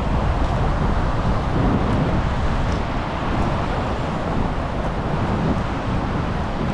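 Steady rushing noise of wind buffeting the microphone over the rush of the River Tees running down its rocky drops.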